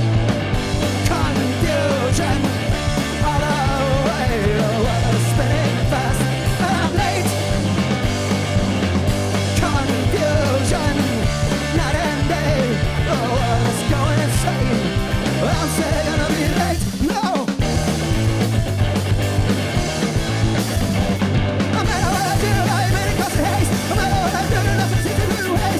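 Live rock band playing a loud, punk-style song: distorted guitar, bass and drums, with a voice singing over them.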